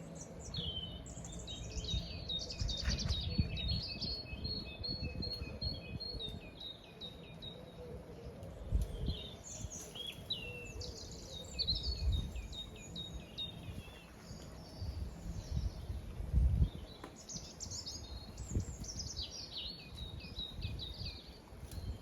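Songbirds singing in three bouts of rapid high chirps, trills and repeated notes, with short pauses between the bouts. An irregular low rumble runs underneath.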